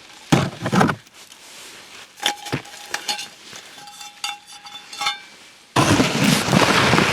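Bird feeder being handled: a loud rustle, then clinks and knocks with a brief squeak. Near the end, birdseed starts pouring into the feeder with a sudden, steady rushing hiss.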